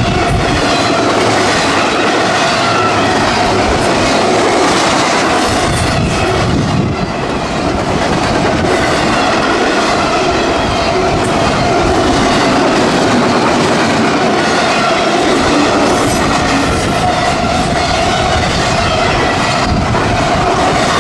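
Double-stack intermodal freight train rolling past at speed, its well cars' wheels running loudly on the rails with a steady metallic whine.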